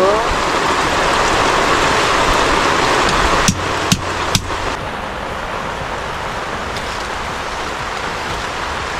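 Heavy rain pouring steadily. A few sharp knocks come about three and a half to four and a half seconds in, after which the rain sound is a little quieter.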